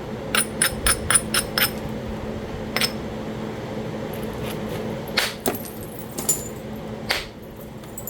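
Hard strikes on a piece of Talahata quartzite being flintknapped. A quick run of six sharp, ringing clicks comes in about a second and a half, then single strikes follow a second or more apart.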